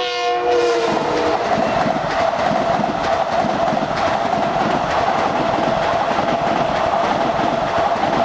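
LIRR M9 electric train passing at speed: steady rolling rail noise with wheel clatter and a constant whine. A chord of pitched tones, likely the end of its horn, fades out within the first second.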